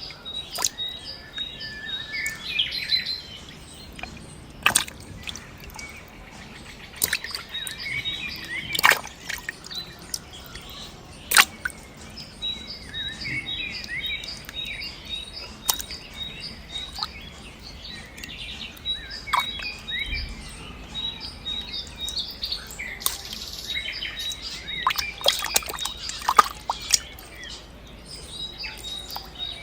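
Outdoor ambience of birds chirping, with a rapid, regular high-pitched ticking and a few sharp clicks or small splashes.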